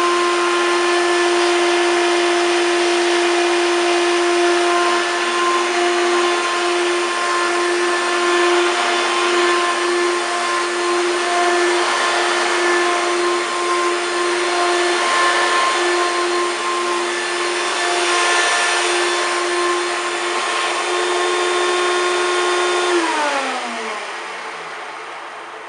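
1993 Hoover Turbopower 2 1000 upright vacuum cleaner running on its highest power setting: a steady motor whine over the hiss of rushing air. About 23 seconds in it is switched off and the motor winds down, its pitch falling.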